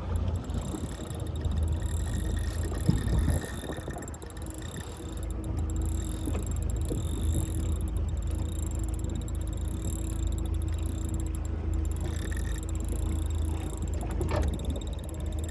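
Motorboat running steadily under way: a low, even engine drone with a faint steady tone over the rush of water.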